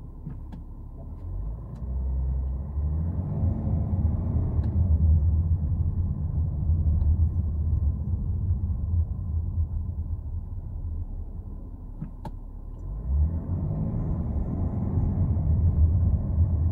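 Cabin sound of a BMW X3 xDrive30d's 3.0-litre straight-six diesel pulling away and accelerating as a low rumble, with engine pitch rising. It eases off in the middle, then swells again as the car accelerates near the end, with a single click about twelve seconds in.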